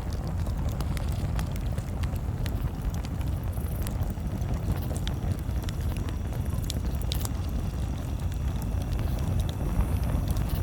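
Wood campfire crackling, with irregular sharp pops and snaps scattered throughout, over a steady low rumble.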